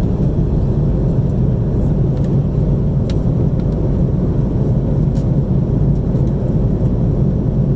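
Steady low rumble and rush of an Airbus A330-300 cabin in cruise flight: engine and airflow noise, with a couple of faint clicks.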